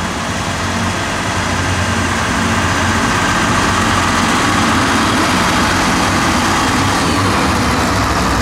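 Electric multiple unit passing close at speed: a steady rush and rumble of wheels on the rails with a low hum underneath, growing louder over the first few seconds as the coaches go by.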